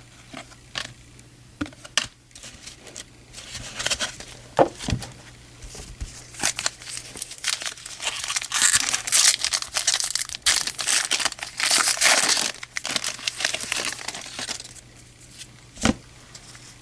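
A trading card pack wrapper being torn open and crinkled, with the crinkling loudest in the middle. A few light clicks of handling come before it and a sharp tap near the end.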